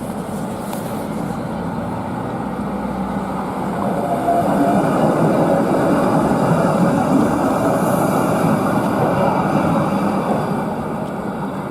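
Tram running through the stop, with the rumble of wheels on rails swelling about four seconds in and easing off near the end.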